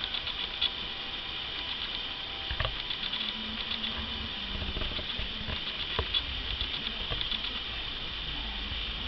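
Common blackbird bathing, splashing in shallow water: a patter of small splashes, with a few sharper flicks about two and a half and six seconds in.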